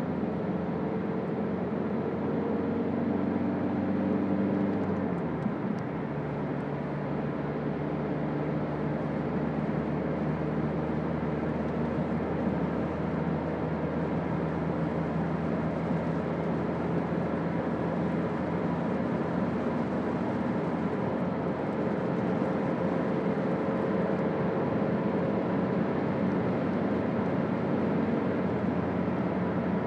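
Toyota Auris 1.4 D-4D four-cylinder turbodiesel engine running while the car is driven, over a steady road and tyre hiss. The engine note drops about five seconds in, then holds steady.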